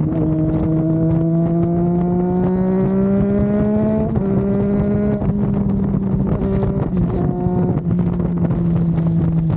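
Triumph Daytona 660's inline three-cylinder engine pulling under way, its pitch rising slowly for about four seconds, then dropping in a couple of steps and running steady, with wind rush over it.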